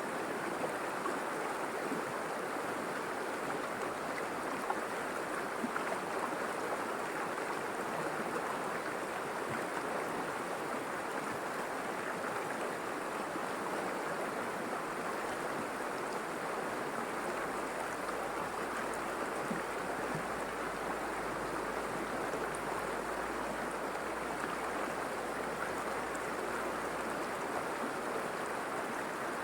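River water flowing and rushing over stones, a steady, even rush.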